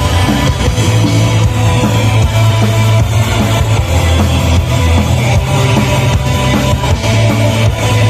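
A metal band playing live and loud: distorted electric guitars and bass over a drum kit, in a dense, unbroken wall of sound with a steady drum beat.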